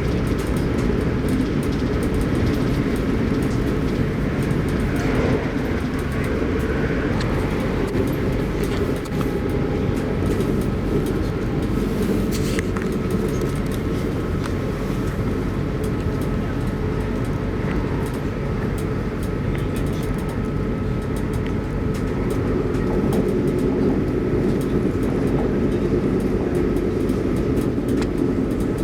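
Arlanda Express electric train running at speed, heard from inside the carriage: a steady low rumble of wheels on rail, with a faint steady whine and scattered light clicks.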